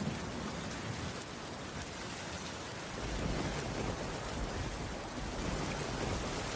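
Steady rain falling, with a low rumble of thunder that swells about halfway through.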